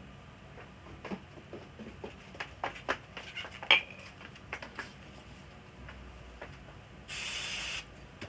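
A run of light clicks and taps from small parts being handled, one sharper click in the middle, then a short spray hiss lasting under a second near the end.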